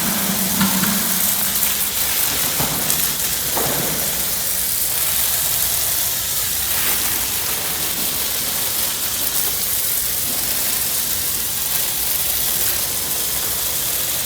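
Water spraying in a steady shower onto the rocks and soil of a freshly planted cactus pot, a continuous hiss and patter as it is watered in.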